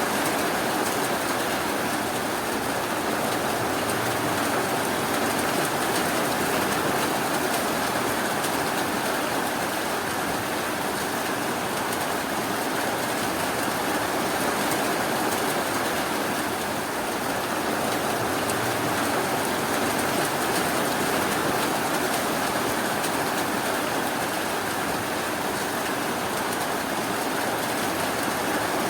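Steady rainfall, an even hiss that holds unchanged with no thunder.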